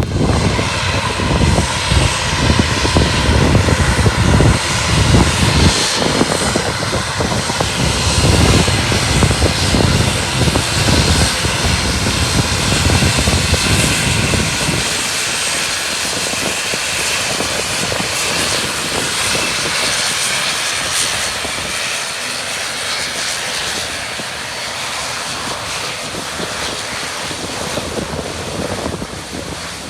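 Airliner engines running, a steady loud rush that slowly fades, with heavy wind buffeting the microphone through the first half.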